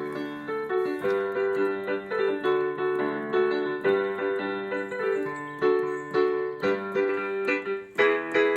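Piano or electric keyboard playing an instrumental passage of a children's song: repeated chords at a steady beat.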